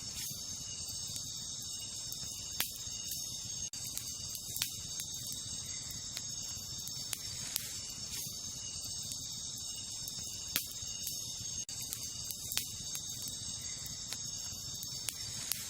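Wood campfire crackling, with occasional sharp pops from the burning wood, over a steady high-pitched chorus of crickets and other night insects.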